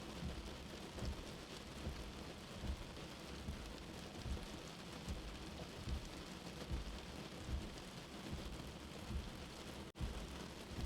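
Steady rain with a soft, low heartbeat-like thump about every 0.8 seconds underneath. The sound drops out briefly about ten seconds in.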